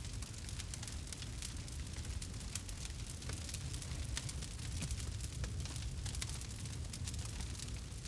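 Campfire crackling with frequent small sharp pops, over a steady low rumble.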